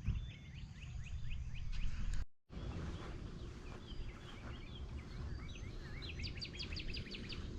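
Wild birds chirping and calling in short notes, with a quick run of repeated chirps near the end, over a steady low rumble. The sound drops out completely for a moment a little over two seconds in.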